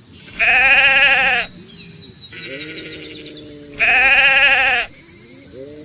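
Sheep bleating: two loud, wavering bleats of about a second each, with quieter, lower calls between them and near the end.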